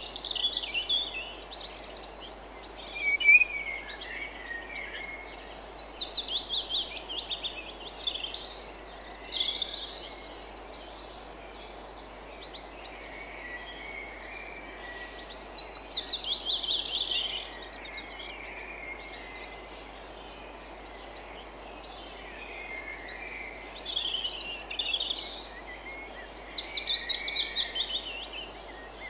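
Songbirds singing: short, rapid trilled phrases that slide downward in pitch, repeated every few seconds, over a steady background hiss.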